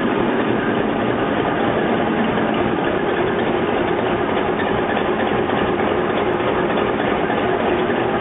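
Steady, even din of a DF11G diesel locomotive's engine, heard inside the cab.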